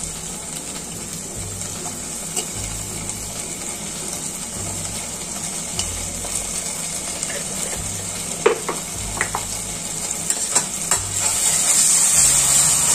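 Sliced onions frying in oil in a stainless steel pot, a steady sizzle. From about eight seconds in, a few metal clinks and scrapes as a perforated ladle is worked against the pot. The sizzle grows louder near the end as the onions and ginger-garlic paste are stirred.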